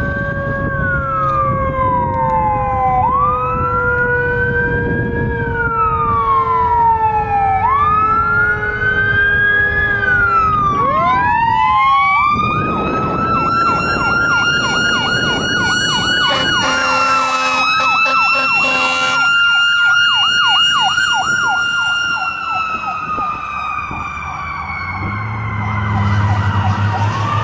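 Fire engine responding with its siren wailing up and down about every two seconds. A second siren winds up about halfway through and holds a high tone that slowly sags. A couple of seconds of horn blasts come in the middle, and a low engine rumble is heard near the end.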